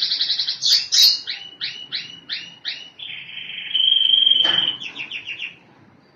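Canary singing a long song: a rapid trill, then about six repeated rolling notes, a long steady whistle, and a short fast trill before the song stops near the end.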